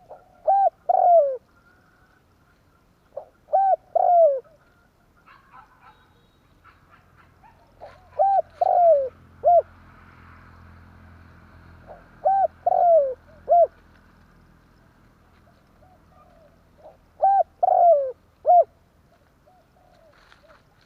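Spotted dove cooing: five phrases of three or four coos each, spaced a few seconds apart, with one longer note in each phrase falling in pitch.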